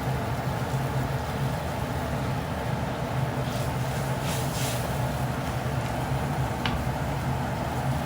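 Steady low mechanical drone, like a running engine, that cuts off suddenly at the end.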